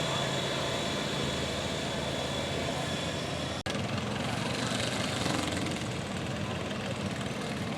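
Engine running steadily, with a brief dropout about three and a half seconds in, after which the sound changes slightly.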